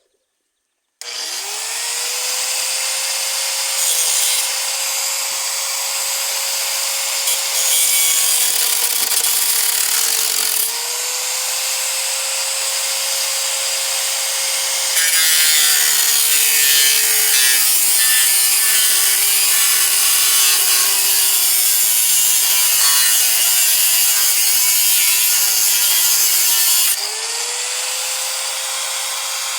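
Angle grinder with a cutting disc spinning up about a second in, then cutting sheet metal: its steady whine sags in pitch each time the disc bites, louder and harsher through the long cut in the middle, and picks back up to free running near the end.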